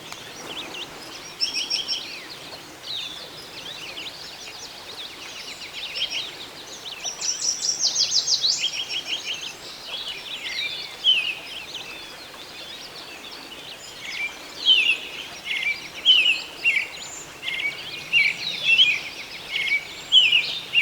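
Songbirds singing and calling: rapid trills and short downward-sliding chirps, more frequent and louder near the end, over a faint steady rush of a stream.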